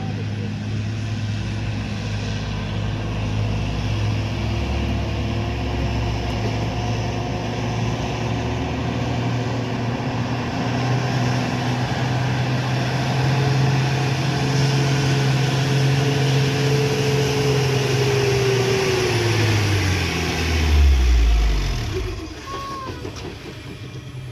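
Truck's diesel engine labouring under load on a steep climb, its note holding steady. About twenty seconds in, the revs sag sharply and the engine bogs down and dies: the truck has failed to make the hill.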